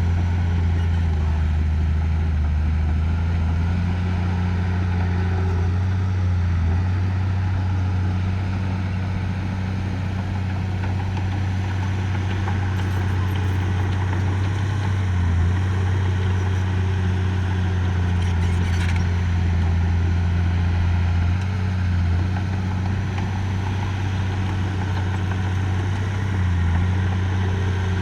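Heavy construction machine's engine running steadily with a low hum, its speed shifting slightly now and then.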